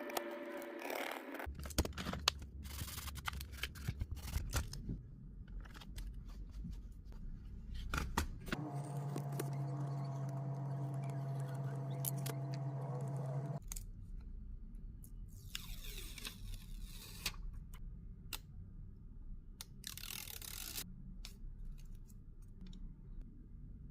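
Small clicks, taps and scrapes of hand tools working on a phone. A steady hum runs for about five seconds in the middle.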